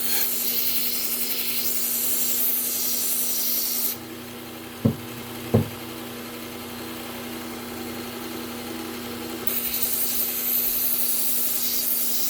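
Knife blade drawn across a Trizact abrasive belt on a running belt sharpener: a steady hiss over the motor's hum, the final edge-refining and burr-removing stage. About four seconds in the blade comes off the belt and only the motor's hum is left, with two sharp knocks about half a second apart; the hiss of the blade on the belt starts again near the ten-second mark.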